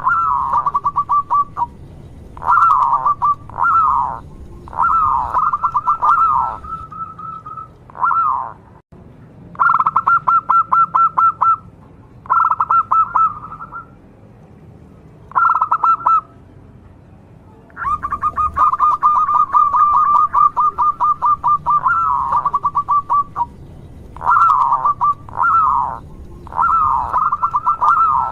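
Zebra dove (perkutut) cooing: repeated bursts of fast, pulsed coos, each lasting a second or two, with short pauses between.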